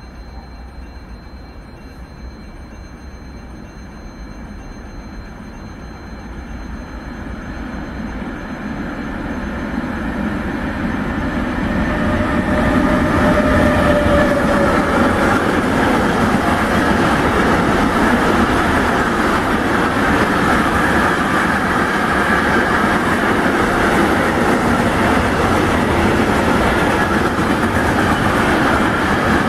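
Container freight train approaching and passing close by: the rumble of the locomotive builds for about ten seconds, then the wheels and wagons go by with a steady, loud rolling rail noise.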